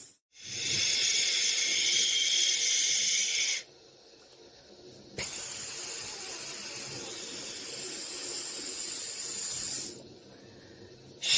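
White-noise hiss for lulling a baby to sleep: a steady, high-pitched hiss that breaks off twice for about a second and a half and then starts again.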